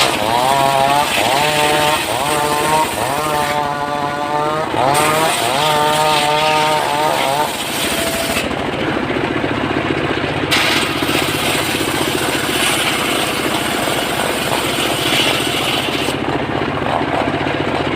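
Engine-powered saw cutting mahogany. The engine runs steadily; for the first several seconds a whine rises and falls over and over above it, then gives way to a rougher, noisier cutting sound.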